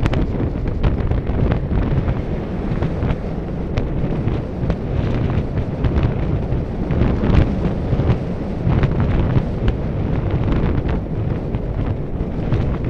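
Wind buffeting the microphone as a steady low rumble, with scattered short clicks and knocks.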